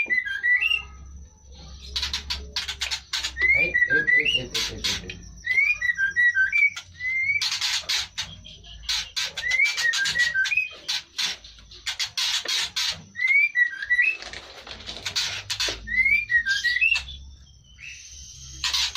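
A bird's short whistled phrase, a rising note followed by a few quick lower notes, repeated over and over about every three seconds. Bursts of rustling, scraping noise come and go between the calls.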